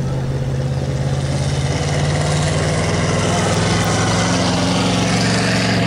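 Engine of the mobile starting-gate car running, rising in pitch about two seconds in as the car speeds up and pulls away to release the trotters.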